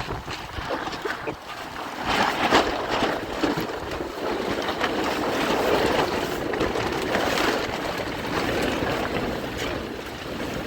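Heavy rain and strong gusting wind, with the wind buffeting the microphone.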